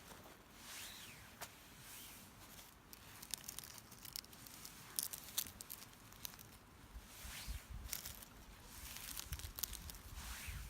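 Rustling and crinkling handling noise with many scattered sharp clicks and crackles, busier in the second half.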